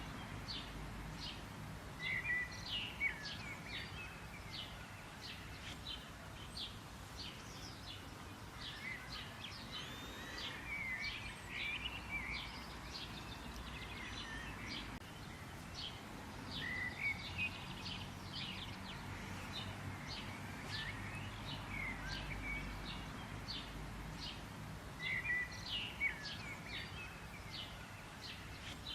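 Songbirds chirping and twittering in quick short calls, with louder bursts of song every several seconds, over a steady low background hum.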